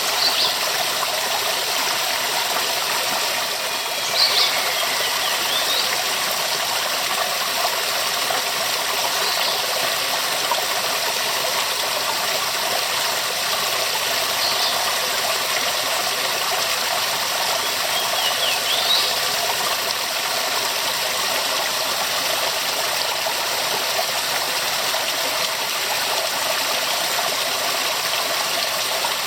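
Waterfall: a steady, full rush of falling water, with a few brief high-pitched chirps over it now and then.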